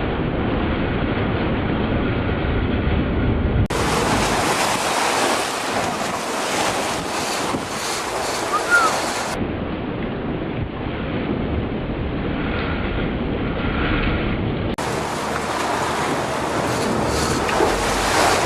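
Wind buffeting the microphone over the rush of open sea and boat noise. The sound changes abruptly a few times, where separate clips are joined.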